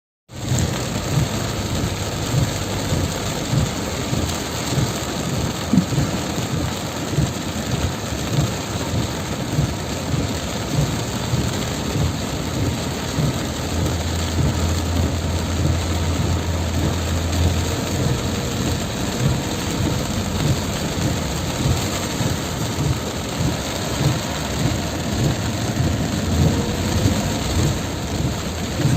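Heavy tropical rain pouring down, a dense steady hiss with a constant patter of low drumming.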